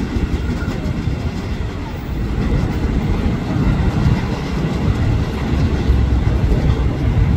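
JR 205 series electric commuter train running over the rails on its approach: a steady low rumble of wheels and running gear with rail clatter, growing louder as it nears.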